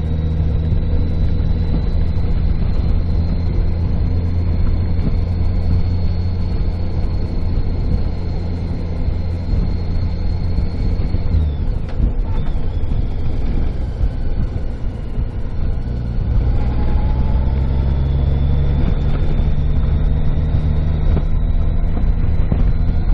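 Car engine and road noise heard inside the cabin while driving, a steady low hum. The engine note drops off about halfway through and builds again a few seconds later.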